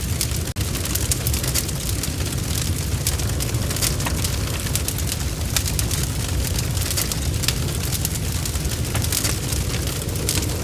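Wood fire crackling in a fireplace, with frequent small pops over a steady low rumble, mixed with rain pattering. The sound drops out for an instant about half a second in.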